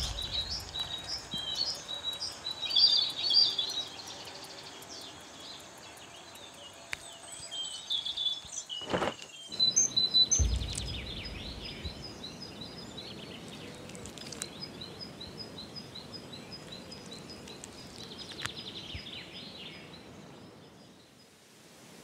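Birds chirping and calling in quick, high notes, thickest at the start and more sparse later, with a short low rumble about ten seconds in.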